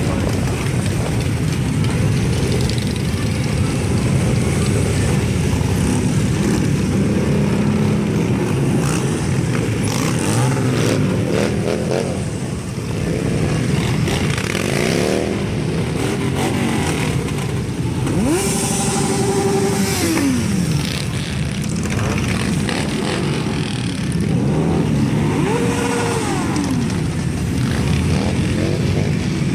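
A crowd of Harley-Davidson V-twin motorcycles running together with a steady deep rumble. Riders rev their engines several times, and one rev is held for a couple of seconds before it drops back.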